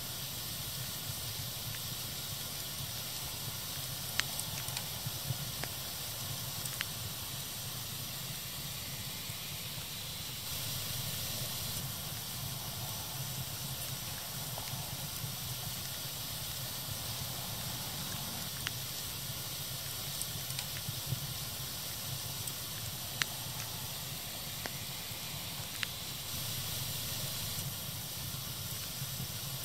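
A crackling fire burning with a steady hiss, broken by scattered sharp crackles and pops every few seconds.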